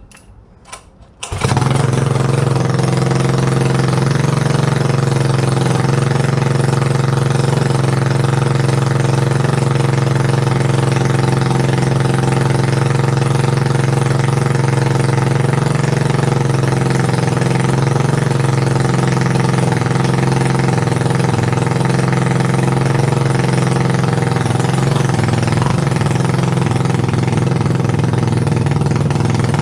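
Mini dirt bike's small engine catching about a second in after a couple of clicks, then running loud and steady at an even pitch. The owner suspects its throttle is sticking open.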